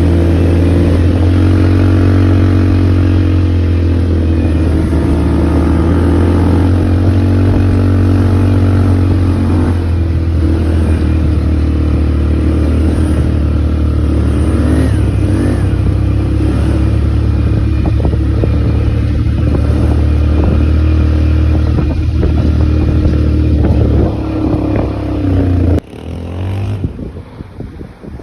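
ATV engine running under way, a steady hum with small rises and falls in pitch. The engine sound drops away sharply near the end.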